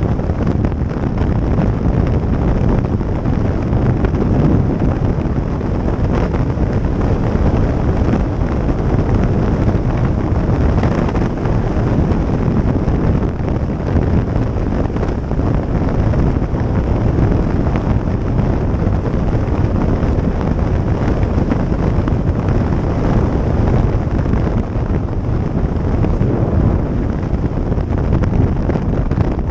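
Steady heavy wind noise on the microphone of a moving motorcycle, with the rush of riding underneath.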